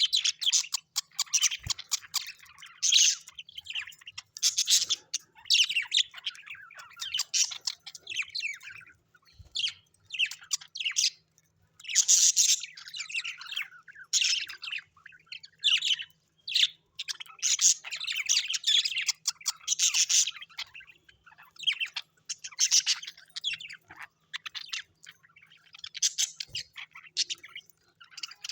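Small birds chirping and twittering in quick, high-pitched bursts, one busy phrase after another with short pauses between.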